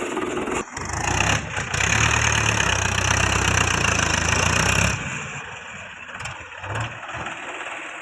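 Heavy diesel engine of earthmoving machinery running hard with a steady low drone, easing off to a lower, quieter run about five seconds in.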